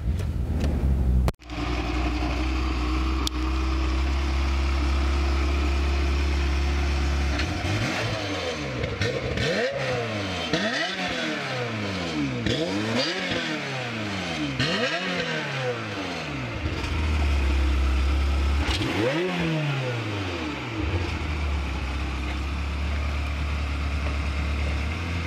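Ferrari F355's 3.5-litre V8 starting up and settling into idle, then revved in a quick run of throttle blips from about 8 to 16 seconds in and once more near 19 seconds, the pitch sweeping up and down each time before dropping back to idle.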